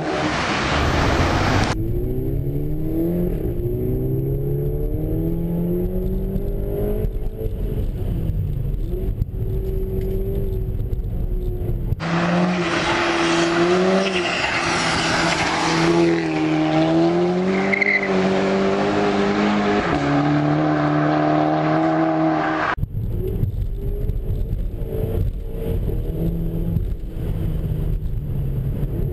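Audi A3 TSI's turbocharged four-cylinder engine with an APR K04 turbo upgrade, revving and pulling under acceleration, its pitch climbing and dropping again several times. The sound changes abruptly about 2, 12 and 23 seconds in, with a brighter, noisier stretch in the middle.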